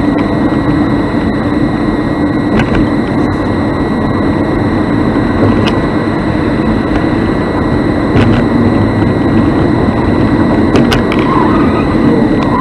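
Vehicle driving, recorded from a dash cam: loud, steady road and engine noise with a thin, steady high whine and a few faint clicks.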